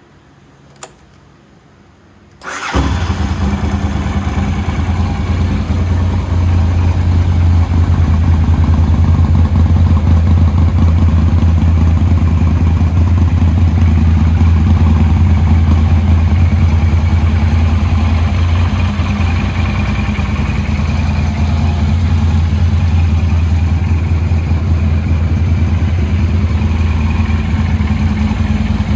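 A single click, then a 1995 Yamaha TRX850's 849 cc parallel-twin engine, breathing through Keihin FCR41 carburettors and a TAIRA Racing full exhaust, fires up about two and a half seconds in and settles into a steady idle.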